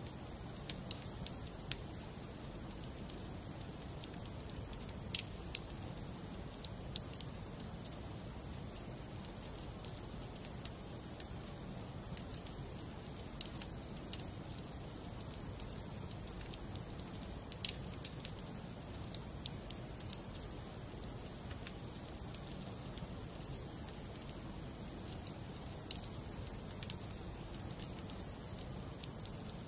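Wood fire burning in a fireplace: a steady low rumble with irregular sharp crackles and pops of the burning logs.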